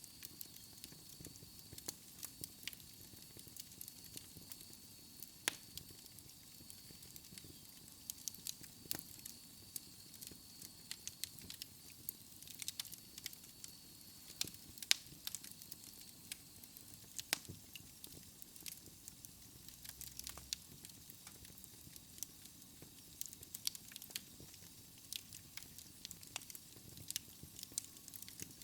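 Wood fire burning in a fireplace: a soft steady hiss with frequent irregular crackles and pops.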